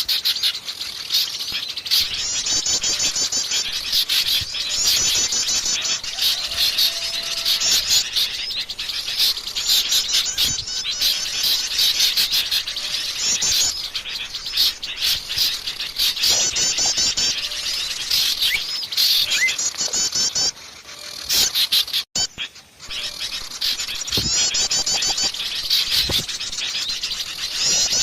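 A dense chorus of many small songbirds chirping and trilling at once, with rapid repeated call phrases overlapping. It is a bird-lure (pikat) recording meant to draw in birds. The chorus thins out briefly about three-quarters of the way through.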